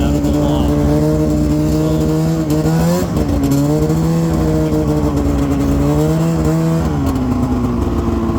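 Snowmobile engine running at a fast idle, its pitch rising and falling briefly twice with a blip of the throttle, then settling to a lower idle near the end.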